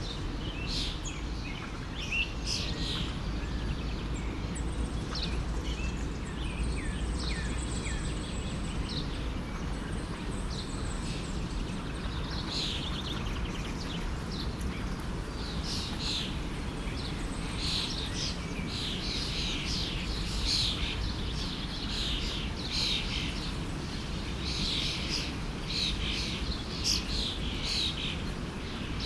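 Many birds chirping and trilling over the steady rush of a stream, with the birdsong growing busier in the second half.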